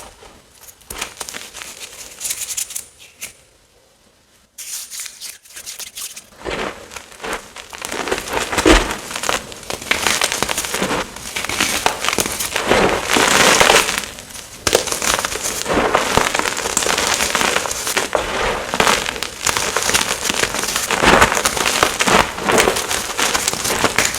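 Blocks and chunks of gym chalk being crushed and crumbled by hand: dense, crackly crunching with a brief quiet gap a few seconds in.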